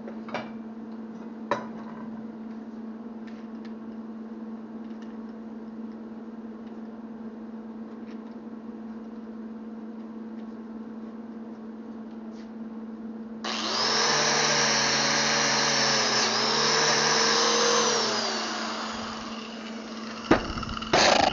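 Electric grinder with a buffer wheel switched on about two-thirds of the way in. It runs at a steady high pitch for about five seconds, dipping briefly midway, then winds down. Before it there is a steady hum with a couple of faint clicks, and after it a couple of sharp knocks.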